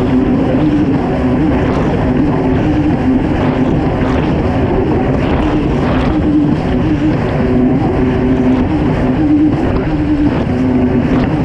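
Kawasaki STX 160 jet ski's four-cylinder four-stroke engine running hard under race load, its note wavering up and down, over a loud rush of water with scattered knocks from the hull.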